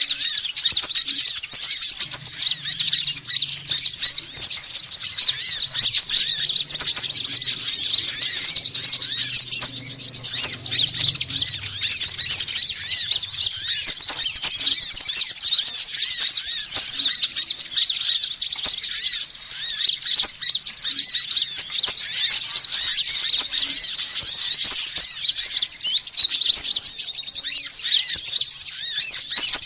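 Dense, unbroken chorus of many small birds chirping and twittering excitedly in high, rapid notes. It is a bird-trapping lure call (suara pikat), the agitated flock noise played to draw small birds to lime sticks.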